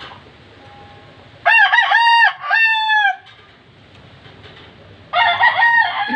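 A rooster crowing twice: one crow about a second and a half in and another near the end. Each crow comes in several short segments and ends on a longer, falling note.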